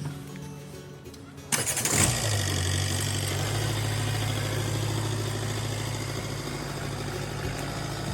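A vehicle engine starts about a second and a half in, then runs steadily at idle.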